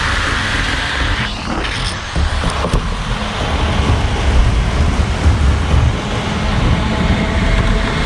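Model steam train running on the layout track, a steady rumble of its motor and wheels.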